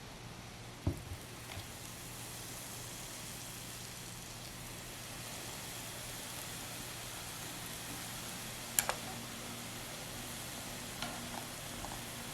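Hot oil sizzling steadily as kuih loyang (beehive cookies) deep-fry, with a few sharp clinks about a second in and again near the end.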